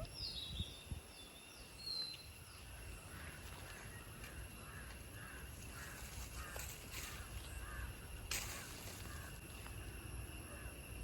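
Birds calling: a few high chirps in the first couple of seconds, then a long run of faint repeated calls about two a second, with one sharp click about eight seconds in.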